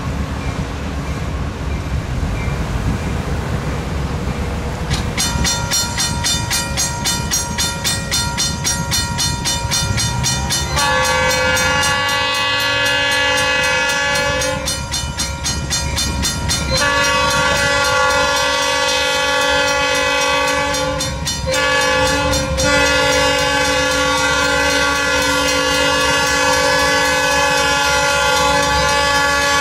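A diesel locomotive's air horn, an East Penn EMD GP18, sounding long blasts from about eleven seconds in, with a gap of about two seconds in the middle and two short breaks later, over the running train. A fast, even repeating ring or tick starts about five seconds in and carries on under the horn.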